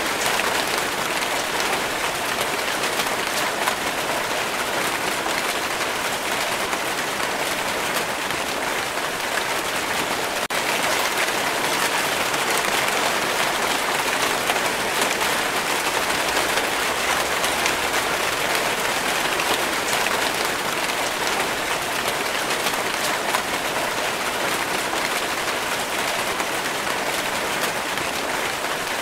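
Steady rain falling: an even hiss of many drops, with fine ticks of single drops through it.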